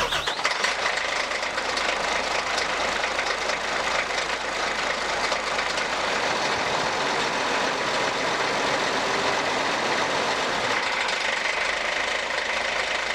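Isuzu FVZ1400 water truck's six-cylinder turbo-diesel engine idling steadily, with an even diesel clatter.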